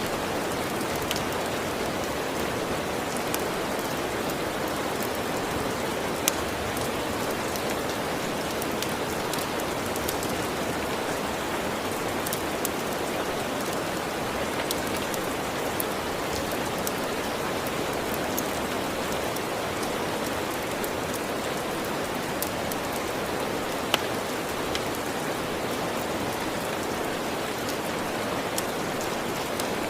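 Steady, even rainfall with scattered small sharp ticks of drops or crackles; two ticks stand out louder, one about six seconds in and one near 24 seconds.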